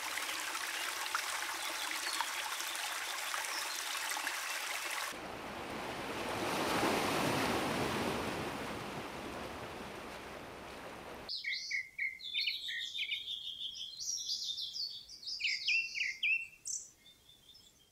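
Rain pattering steadily for about five seconds, then a rushing, water-like noise that swells and fades, then small birds chirping and twittering in quick, bright calls over a quiet background for the last six seconds or so.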